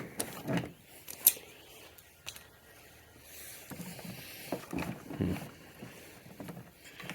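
Hand-work noises from parts and tools being handled: a few sharp clicks, the loudest about a second in, and several dull knocks, the heaviest around five seconds in.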